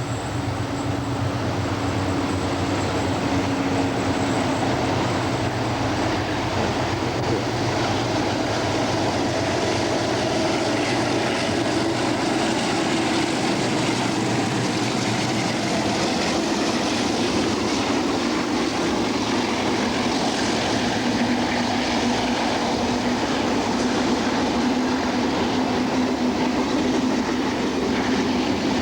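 Diesel-electric locomotive-hauled train running past: a steady engine drone with wheel and rail noise.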